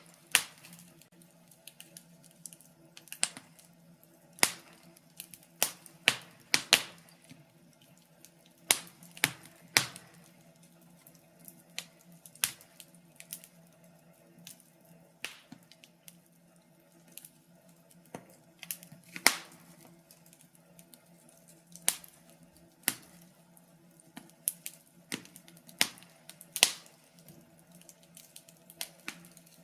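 Wood fire crackling: irregular sharp snaps and pops, some louder than others, over a faint steady low hum.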